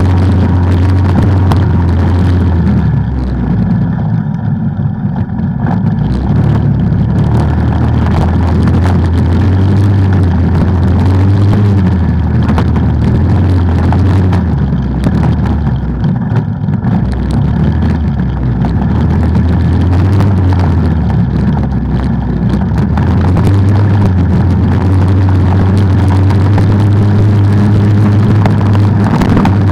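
ATV engine running under throttle while riding, loud and close. Its pitch rises and falls as the throttle is worked, easing off briefly about four to six seconds in and again around the middle.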